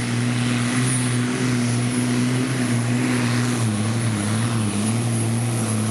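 Supersport pulling truck's diesel engine running at full power under the load of the pulling sled, a steady engine drone whose pitch dips and wavers about halfway through.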